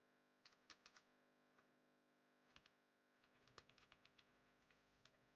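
Near silence with a faint steady hum and a few scattered, faint clicks of typing on a computer keyboard, in small clusters.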